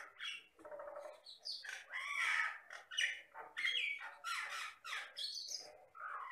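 A jalak batam myna singing energetically: a fast, unbroken run of varied squawks, whistles and chattering notes with quick rising and falling sweeps and a rattle about a second in, the mixed, mimicking song of a myna.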